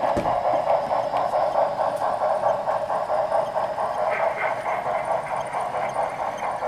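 Sound decoder of a Broadway Limited Imports model Great Northern 2-8-2 Mikado steam locomotive playing a steady, rhythmic exhaust chuff through its small onboard speaker, thin and without bass. A brighter hiss joins the chuffs about four seconds in.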